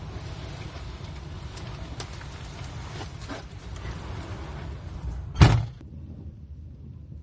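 A steady low rumble with a hiss over it, then one loud thump about five and a half seconds in, after which the hiss drops away and only a quieter rumble is left.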